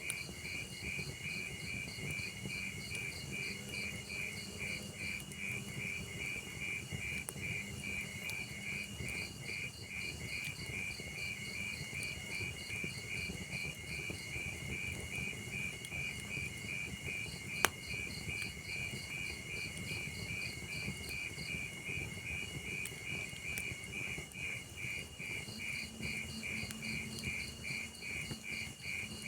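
Crickets chirping in a steady, fast rhythm of short high pulses over the low crackle of a log fire, with one sharp pop about two-thirds of the way through.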